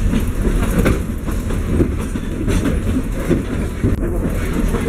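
Narrow-gauge railway passenger car running on the track, heard from the gangway between cars: a steady low rumble with rattling and irregular clacks from the wheels and couplings.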